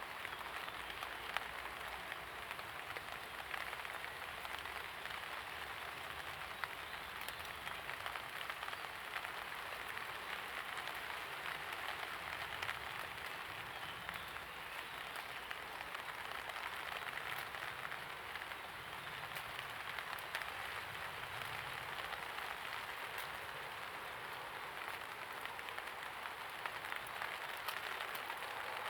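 Steady light rain falling and pattering on surfaces, a continuous even hiss with scattered small drop ticks.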